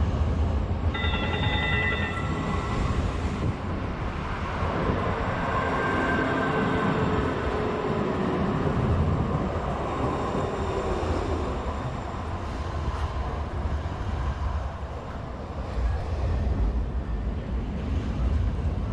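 Portland MAX light rail train running, with a steady low rumble. A brief high ringing tone sounds about a second in, and fainter high tones follow a few seconds later.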